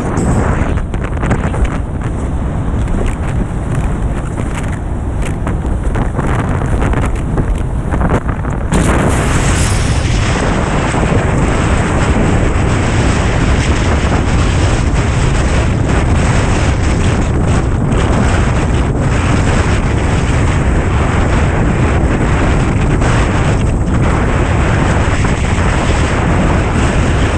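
Strong wind buffeting the microphone in a steady, loud rumble, growing louder about nine seconds in.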